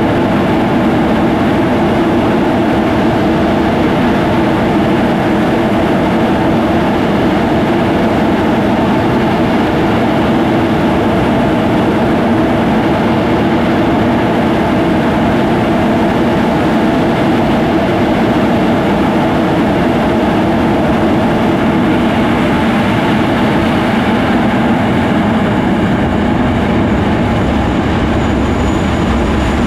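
The twin Rolls-Royce Avon turbojets of an English Electric Lightning F6 running steadily at high power, a loud, even jet roar with a deep rumble.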